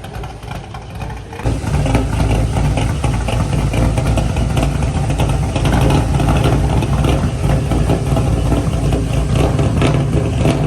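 Car engine with a freshly modified exhaust, getting much louder about a second and a half in and then running steadily and loudly, the low exhaust note dominating.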